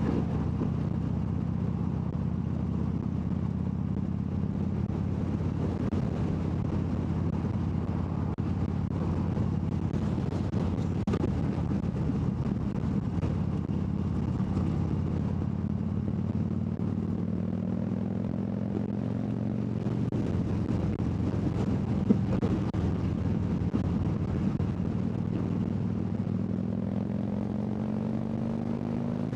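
Harley-Davidson V-twin motorcycle engine running at road speed under the rider. Its pitch rises slowly twice in the second half as the bike accelerates.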